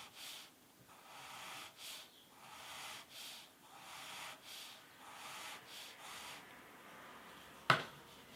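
Coloured pencil scratching on paper in short feathering strokes, about two a second, stopping about six and a half seconds in. A single sharp click near the end, the loudest sound.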